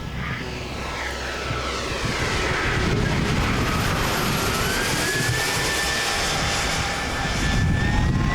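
Large radio-controlled model airliner in flight, its engines giving a steady rushing whine that rises in pitch from about four seconds in.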